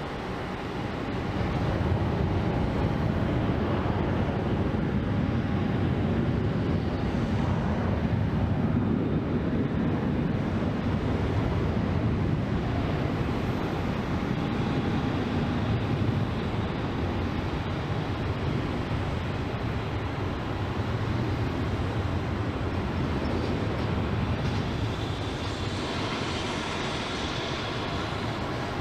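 Aircraft engine noise from a jet taking off: a loud rumble swells about two seconds in and holds, easing a little later on, with a higher whine coming in near the end.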